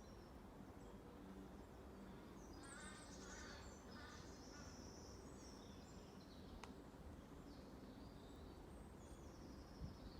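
Faint outdoor ambience: a steady low hum of distant road traffic from the southern bypass, with a burst of bird calls about three to five seconds in and scattered high chirps later.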